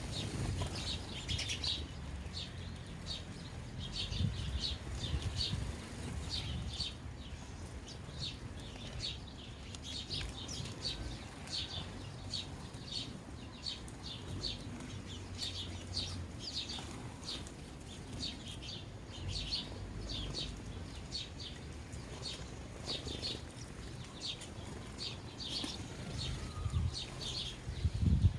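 A flock of sparrows chirping: short, high chirps repeating a few times a second, over a low rumble.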